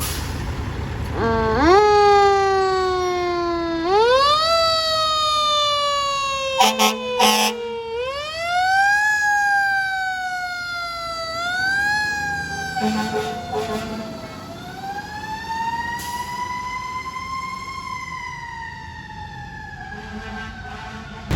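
Fire engine siren wailing in repeated sweeps: each climbs quickly and falls away slowly, then one long slow rise and fall near the end. Short horn blasts cut in about seven seconds in and again around thirteen seconds.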